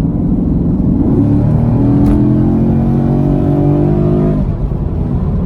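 2017 Camaro SS's 6.2-litre V8 under hard acceleration in a full-throttle pull. The engine pitch climbs, dips at an upshift about a second in, climbs again through the next gear, and drops away as the throttle is lifted about four and a half seconds in.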